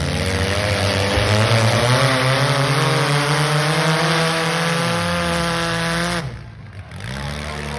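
Demolition derby cars' engines revving, several at once, their pitch rising and falling. A little past six seconds in the sound drops off abruptly, then an engine revs up again.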